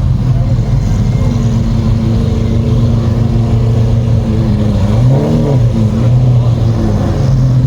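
Car engine idling steadily, with one short rev blip about five seconds in.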